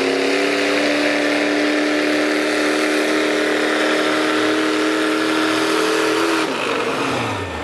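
Truck engine held at high revs under load as it pulls the weight sled, running at a steady pitch for about six seconds before the revs drop off near the end.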